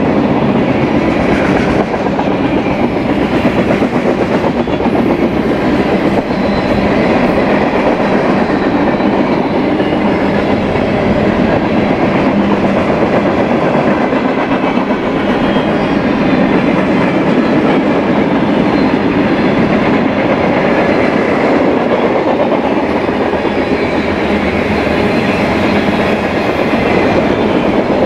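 Mixed freight train's cars rolling past close by: a steady, loud noise of steel wheels running on the rails, with the clatter of the passing cars.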